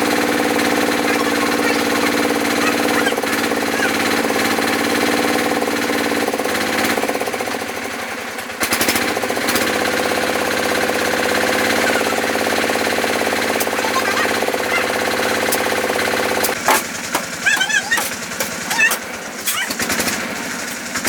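A motor running steadily with an even hum that shifts pitch slightly a couple of times and cuts out about sixteen seconds in. Irregular sharp knocks and short chirping sounds follow.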